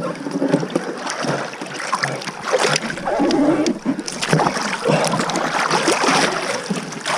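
Water splashing and sloshing around a small boat as it is worked through a shallow stretch of river, with irregular knocks and bumps throughout.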